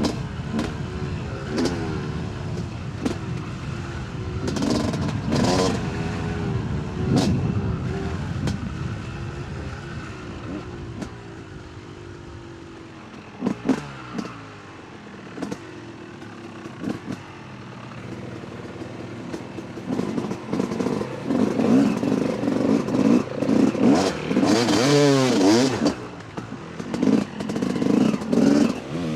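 Yamaha YZ250 two-stroke dirt bike engine revving up and down as it is ridden over rough ground, with rattles and knocks from the bike. It eases off through the middle, then revs harder and louder over the last third.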